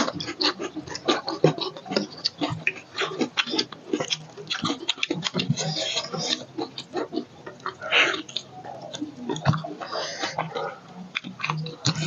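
Two people chewing mouthfuls of roast chicken close to a clip-on microphone: a dense, irregular run of quick mouth clicks and chewing sounds.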